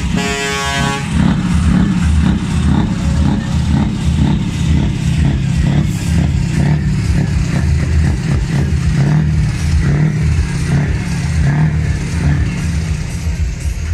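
Heavy truck engine running with a loud, pulsing low rumble. A horn sounds for about the first second.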